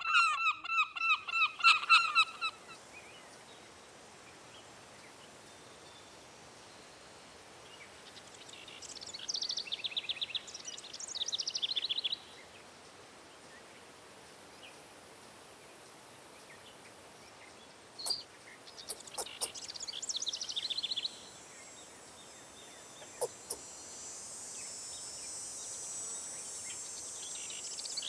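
Geese honking in a rapid run of calls for the first couple of seconds. Then two separate phrases of fast, high, trilling songbird song of a few seconds each. Near the end a faint high hiss builds.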